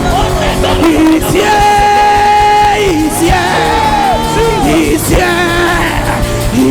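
Live gospel worship music: a singer holds long, sliding notes with no clear words over a steady band accompaniment.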